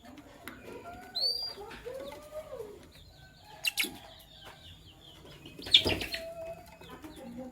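Lovebirds chirping and chattering: many short rising and falling chirps, a loud high chirp about a second in, a couple of sharp clicks near the middle, and a brief loud burst of squawk and noise about six seconds in.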